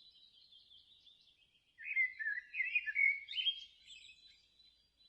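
Rainforest ambience: a faint, steady, high-pitched chorus with a thin held tone, broken about two seconds in by a short run of louder warbling chirps that lasts about a second and a half, then falls back to the chorus.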